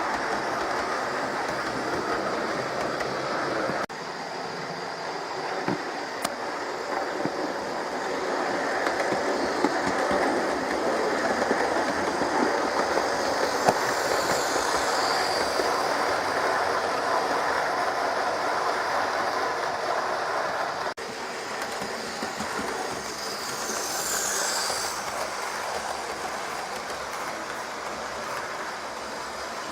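Hornby Flying Scotsman model train set running on its track: a steady motor whirr and wheel noise, with the level changing abruptly twice.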